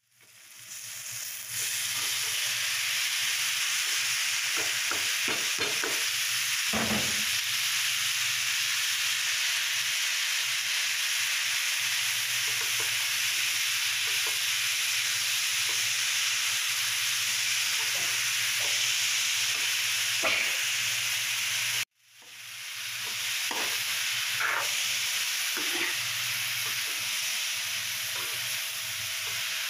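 Hot oil sizzling steadily in a karai as wet shredded winter melon fries in it, with a metal spoon scraping and stirring against the pan now and then. The sizzle drops out briefly about two-thirds of the way through and swells back.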